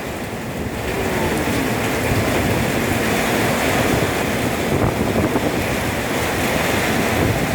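Strong storm wind blowing hard in gusts, a loud, continuous rush with wind buffeting the microphone.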